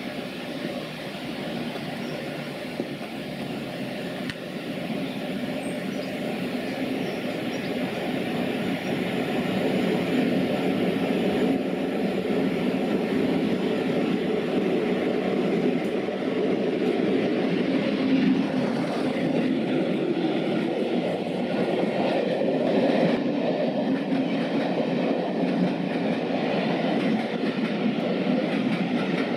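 A diesel-hauled passenger train, Class 47 and Class 20 locomotives at its head, running through a station: a rumble that grows louder over the first ten seconds as it approaches, then stays loud and steady as the coaches run past close by on the rails.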